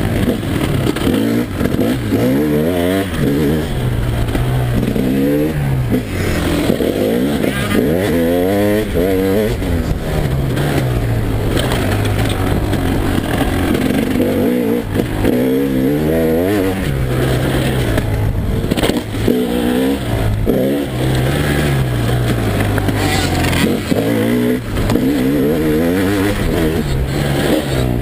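2011 KTM EXC 300 single-cylinder two-stroke engine being ridden hard, its pitch sweeping up under throttle and falling back again and again, every second or two, as it accelerates and comes off the gas.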